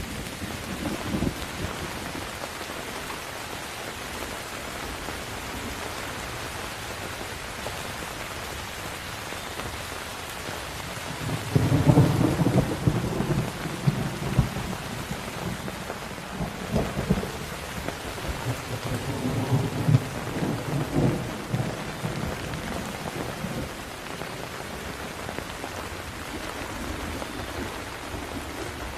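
Steady rain falling, with a rumble of thunder fading at the start. A little before halfway a long, loud roll of thunder breaks in and rumbles with crackles for about ten seconds before dying back under the rain.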